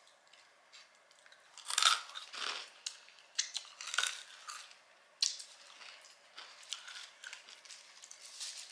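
Close-miked chewing of a sourdough burger and curly fries: irregular wet crunches and bites, the loudest about two seconds in, with further crunches around four and five seconds.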